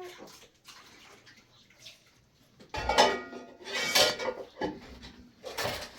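Metal cookware clattering and knocking, with a short ringing after the loudest strikes. The clatter starts about halfway in and comes in several bunches.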